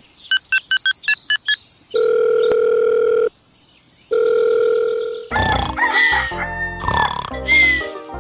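A quick run of about eight short electronic beeps, then two long steady electronic tones with a short gap between them, like a telephone being dialled and ringing; from about five seconds in, music with shifting pitched sound effects takes over.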